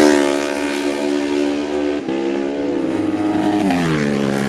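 Racing motorcycles going past at high speed on a road circuit. The engine note drops in pitch as one passes at the start, holds steady, then drops again as a second bike goes by near the end.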